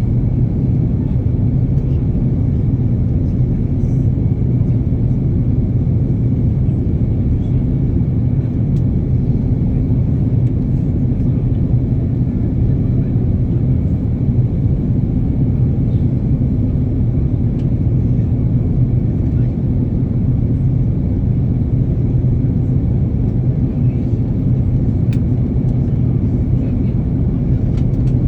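Steady low drone of an airplane's engines and rushing air.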